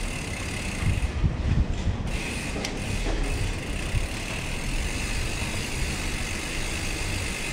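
Rear freehub of a Silverback Stride Expert mountain bike ticking steadily as the bike coasts down a ramp, over a low rumble, with a few louder knocks between about one and two seconds in.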